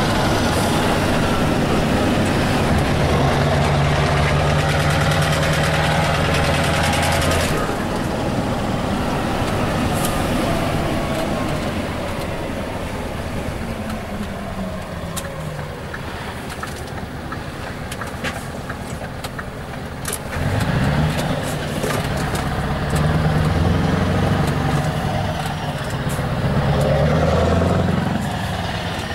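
Scania R truck engine with an open, straight-through exhaust, pulling hard at steady revs. About seven seconds in it lifts off, and the revs fall away over several seconds. From about twenty seconds in it pulls again, the revs rising and falling.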